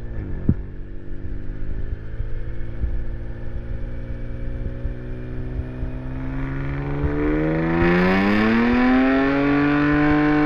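Car engine on a chassis dyno making a pull: the revs creep up, climb faster about two-thirds of the way in, then hold steady and loudest at the top near the end.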